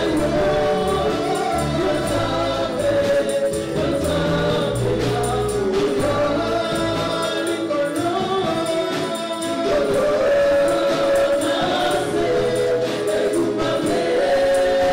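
Congolese gospel choir singing with a band behind it: a bass line and steady percussion hits, the bass falling away about halfway through.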